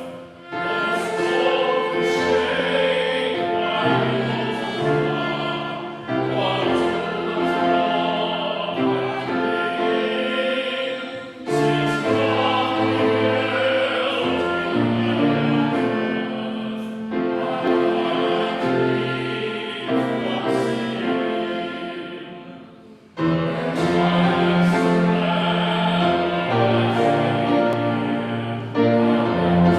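Congregation singing a hymn line by line, with short breaks between phrases about every five or six seconds.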